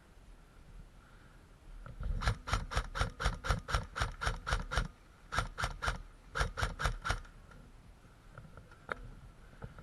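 Airsoft electric rifle, an ASG-based build with a high-torque motor and 12:1 gears, firing three strings of shots at about five a second, the first about three seconds long and the others shorter. The gun has a pinion-to-bevel gear meshing problem that the owner says made it not sound its best.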